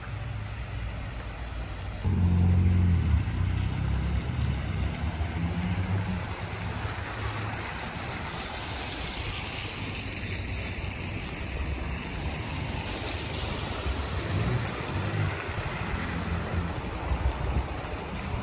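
Wind buffeting the microphone outdoors: uneven low rumbling gusts over a steady rush of noise. The strongest gust comes about two seconds in and lasts a few seconds.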